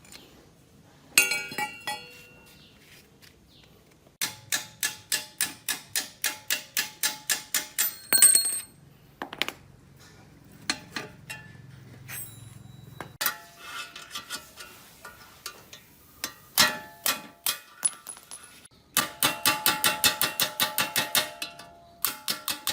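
Metal hand tools working on metal engine parts: runs of sharp, ringing metallic clicks at about four to five a second, in two longer bursts with scattered single clinks between.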